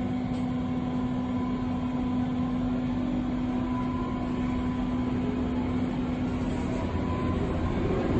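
Berlin U-Bahn U3 train heard from inside the car: steady running noise with an even electrical hum.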